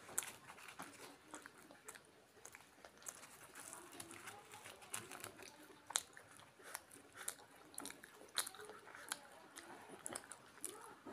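Close-up chewing of soft fried kochuri and potato-chickpea curry: irregular wet mouth smacks and sharp clicks, with the loudest smacks about a quarter second in and about six seconds in.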